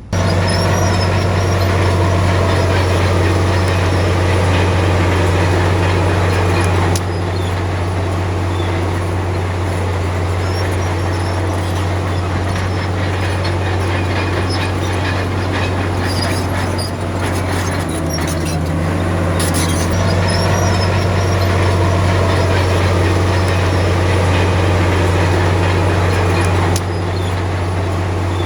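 Heavy diesel earthmoving machine running steadily under load, a loud deep drone. The level steps down abruptly about seven seconds in and again near the end.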